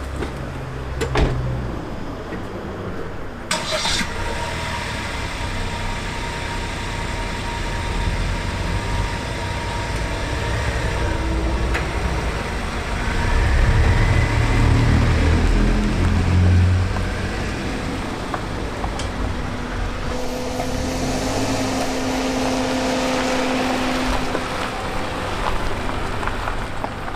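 A car's engine running, its low rumble swelling for a few seconds midway.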